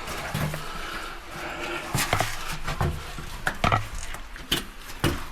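A man grunting and breathing hard with effort while scrambling through a cave passage, amid a string of sharp clicks and knocks from about two seconds in.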